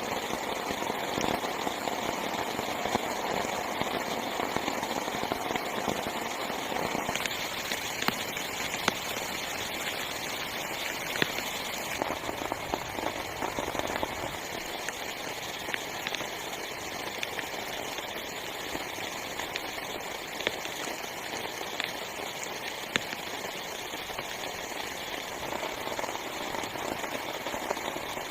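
Heavy rain falling steadily on tent fabric, a dense hiss of drop impacts with a louder single drop striking now and then.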